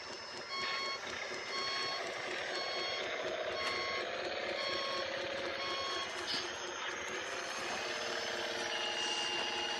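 Reversing beeper on a radio-controlled scale construction truck, beeping about eight times, roughly one beep every three-quarters of a second, then stopping about six seconds in. Underneath, the model's electric drive and gearing whine, rising and falling; a steady high tone comes in near the end.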